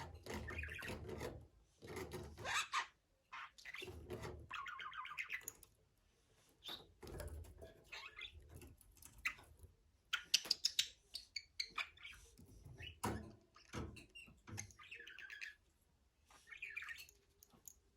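Budgerigar chattering and warbling in short bursts, mixed with chirps and sharp clicks, with a few dull thumps in between.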